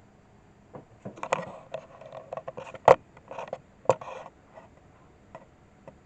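Kittens' claws scrabbling and scraping on a bare scrap-wood climbing toy, a busy run of scratches and clicks with two sharp knocks, the loudest about three and four seconds in.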